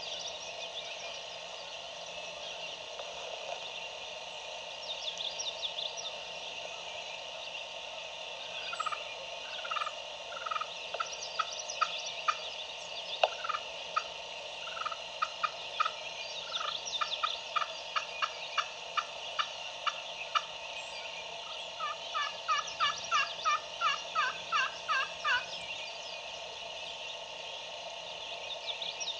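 Turkey yelping: runs of short, falling notes, about three to four a second. The last run, near the end, is the fastest and loudest. Songbirds chirp faintly higher up.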